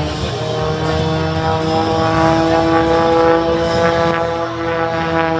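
Edge 540 aerobatic plane's six-cylinder piston engine and propeller droning through a maneuver, the pitch slowly rising and then easing down.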